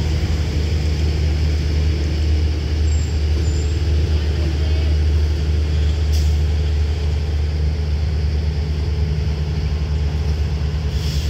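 A diesel-hauled passenger train rolling past and away along the platform, with a steady low diesel locomotive rumble. A short click about six seconds in and a brief hiss near the end.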